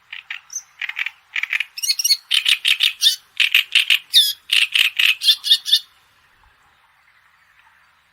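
A songbird singing a long series of loud, rapid repeated notes, about four or five a second, growing louder and stopping about six seconds in. Under it is a faint, steady background chorus.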